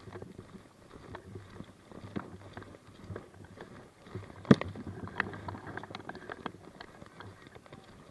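Irregular footsteps with clicks and knocks as a player moves on foot, with one sharp, loud knock about four and a half seconds in.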